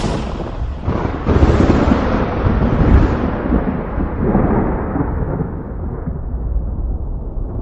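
Thunder: a sharp crack at the start and a second one about a second in, then a long rolling rumble that slowly fades and grows duller.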